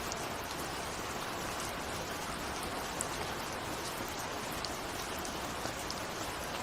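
Steady rain with scattered individual drops ticking on a window pane.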